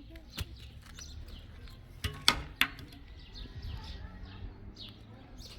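Small birds chirping over and over in short falling notes. A few sharp knocks or clicks come about two seconds in and are the loudest sounds.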